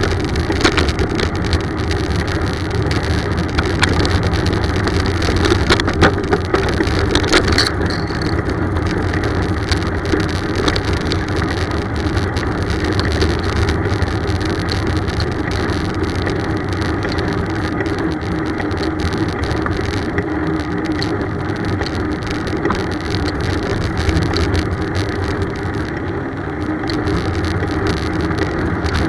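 Steady rumbling noise of a bicycle ride heard from a camera on the bike: road and tyre noise with wind on the microphone. Sharp clicks and rattles come through the first several seconds.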